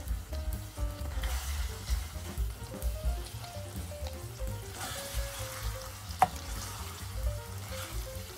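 Corned beef and vegetables sizzling in a pan while a wooden spoon stirs them, the sizzle swelling twice, with one sharp click about six seconds in. Soft background music with a low beat plays throughout.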